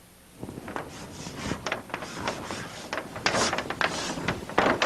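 Irregular rubbing and scraping strokes with light knocks, the strongest about three and a half and four and a half seconds in.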